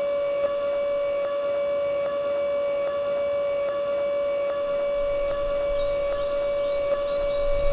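Small electric motor whining at one steady high pitch, with faint ticks about every half second; a low rumble joins about five seconds in.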